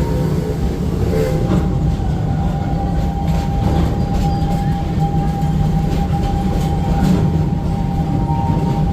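Amusement-park railroad train running, heard from aboard: a steady low rumble from the moving cars, with scattered clicks of the wheels over the rail joints and a thin steady tone running through most of it.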